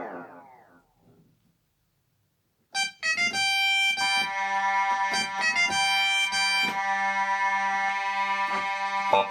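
Korg Pa600 arranger keyboard playing a sampled preset voice: a held note slides down in pitch and dies away, then after a moment of silence a new bright sustained voice starts up near the three-second mark with a few quick notes followed by long held tones.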